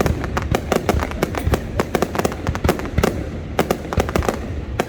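Fireworks display going off in rapid succession: a dense, irregular string of sharp bangs and crackles, several a second.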